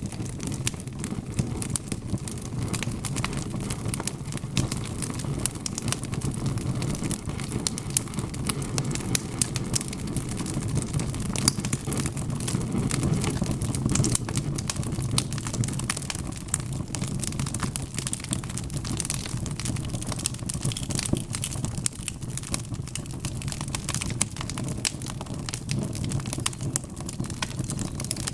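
Logs burning in a fireplace: many small crackles and sharp pops over a steady low rumble from the fire.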